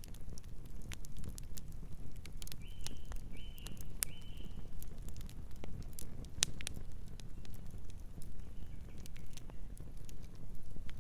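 Wood fire crackling, with irregular sharp pops over a steady low rumble. A bird calls three short notes in quick succession about a quarter of the way in, and fainter again near the end.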